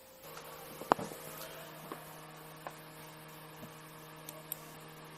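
Steady electrical mains hum, with one sharp click about a second in and a few fainter ticks spread over the following seconds.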